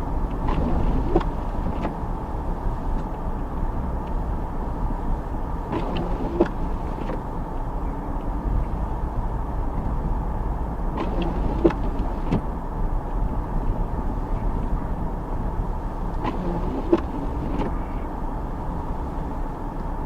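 A car driving slowly through deep snow, heard from inside: a steady engine and tyre rumble, with small clusters of light knocks about every five or six seconds.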